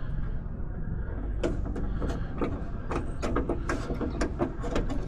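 Irregular small clicks and taps of metal parts being handled as a pin is fitted into the door latch rod linkage inside a car door, over a low steady hum.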